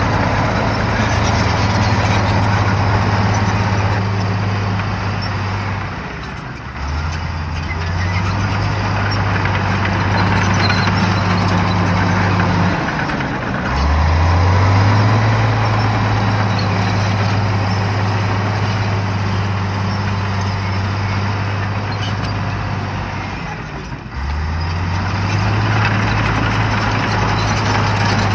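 Shantui bulldozer's diesel engine running hard, its low steady note sagging and then climbing back three times.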